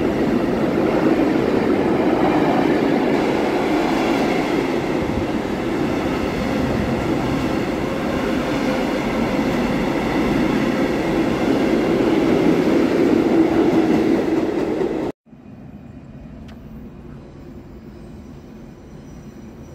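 A container freight train rolling past close by: the steady noise of its wagon wheels on the rails. It cuts off abruptly about 15 seconds in, leaving a much quieter background with faint steady tones.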